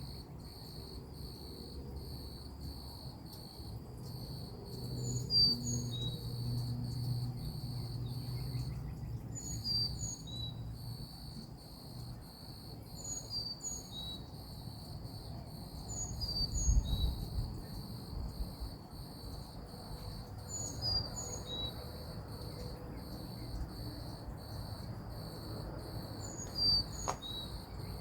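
Outdoor ambience of insects chirping in a steady pulsing rhythm, with a bird repeating a short, high call of a few falling notes every three to four seconds. A low rumble runs underneath.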